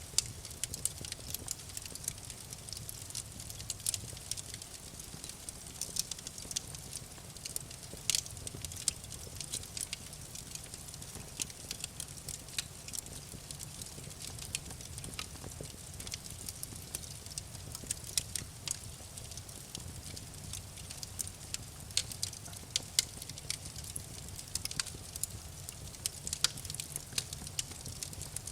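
Wood fire crackling in a fireplace: irregular sharp pops and snaps over a soft low rumble of the flames.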